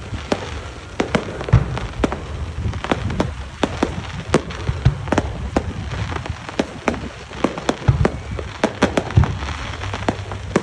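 Fireworks going off: many sharp bangs and crackles in quick, irregular succession, with a few deeper booms among them.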